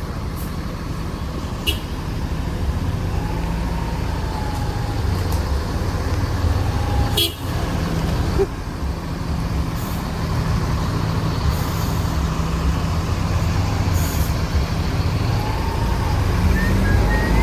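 Bus engine running steadily with road noise. A couple of short vehicle horn toots sound about three seconds in and again near the end, with a few sharp clicks in between.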